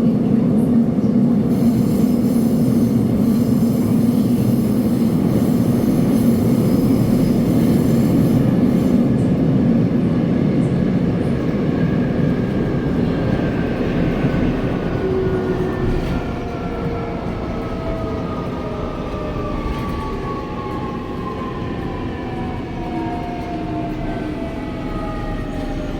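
Seoul subway train running with a steady low rumble, then slowing: from about halfway through, several tones from its electric drive fall together in pitch as it brakes.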